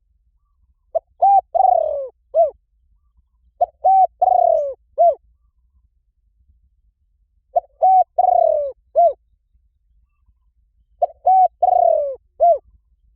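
Spotted dove cooing: four phrases a few seconds apart, each two short coos, then a longer falling coo and a short closing coo.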